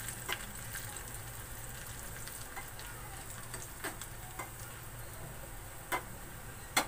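Garlic, dried red chillies and curry leaves sizzling in hot ghee in a small metal tadka pan as they brown, stirred with a metal spoon that clicks against the pan about five times.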